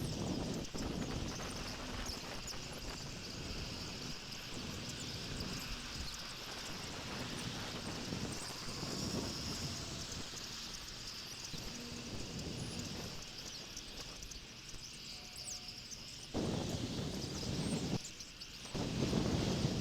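Outdoor ambience picked up by a bald eagle nest camera's microphone: a steady hiss with irregular low rustling bumps, and two louder rushes of low noise near the end.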